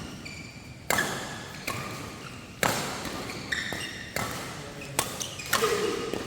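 Badminton rally: rackets striking the shuttlecock, sharp cracks at uneven intervals, about five or six in all, each ringing briefly in a large hall. Short high squeaks come between the hits.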